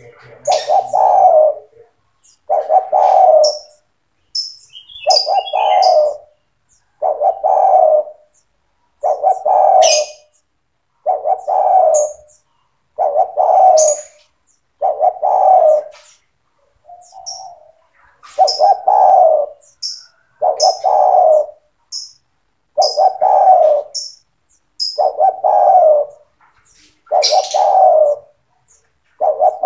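Spotted dove (tekukur) cooing its song over and over, one phrase about every two seconds, with a brief break near the middle. Faint high chirps come in between the coos.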